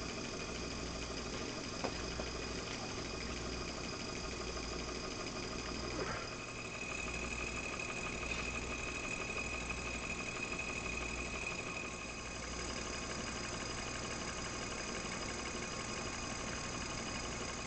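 Model seven-cylinder rotary steam engine running steadily, with a thin high tone joining in for a few seconds midway.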